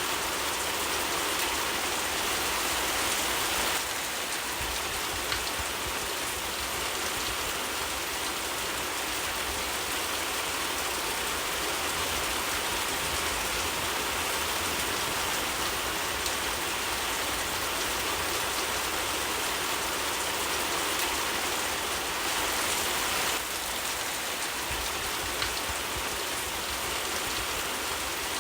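Steady rain falling, an even hiss of many drops, whose texture shifts slightly about four seconds in and again near the end.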